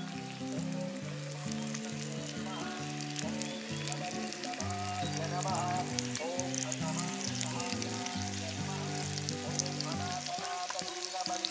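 Marinated chicken pieces frying in hot oil in a small clay pot, a steady crackling sizzle with many tiny pops, over background music.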